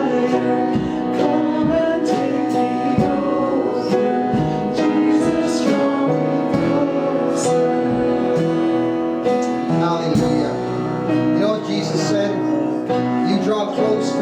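Church worship music: a band with guitar and a steady beat accompanying singing.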